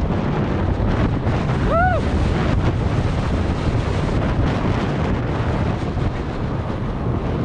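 Heavy wind buffeting on a GoPro microphone while a mountain bike rides fast down a rough dirt trail, with rattling knocks throughout. About two seconds in there is a brief squeal that rises and falls.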